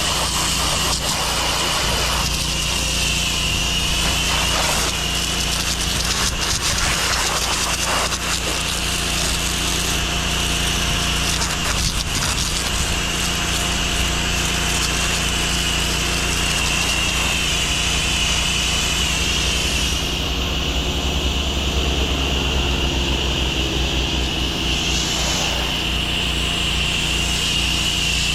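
Pressure washer running steadily: a low engine hum under the hiss of the high-pressure water spray.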